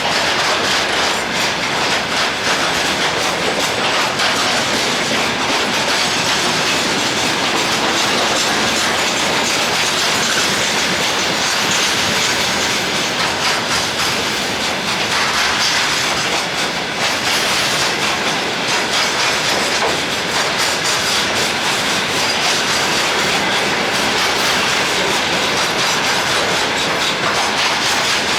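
A freight train rolling past at speed, its wagon wheels clattering over the rail joints in a continuous fast clickety-clack.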